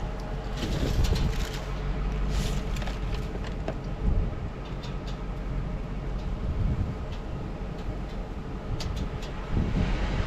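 A vehicle driving, with steady engine and road noise and a few light clicks and rattles.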